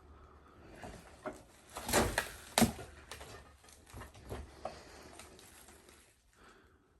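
Footsteps and knocks on old wooden floorboards: a run of irregular thuds and clicks, the two loudest about two seconds in, fading out after about five seconds.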